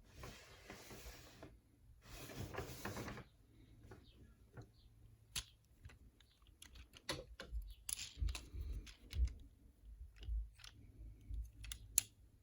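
Rustling of packaging, then a run of small, sharp plastic clicks and taps from a toy action figure and its packaging being handled.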